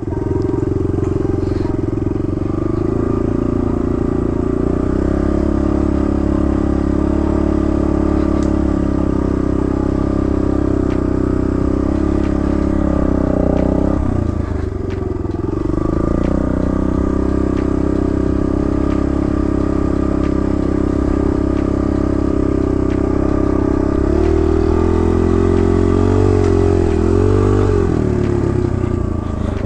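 Kawasaki KLX110 dirt bike's small single-cylinder four-stroke engine running at low trail speed. The revs dip about halfway through, then rise and fall several times near the end.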